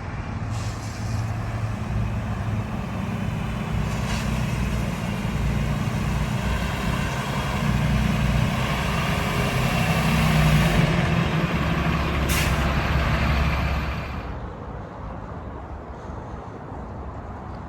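Heavy diesel truck engine running: a 2019 Freightliner M2-106 with a Detroit DD8 7.7L turbo diesel. A steady hiss rides over it with one short sharp sound about twelve seconds in, and the hiss stops and the sound drops off about fourteen seconds in.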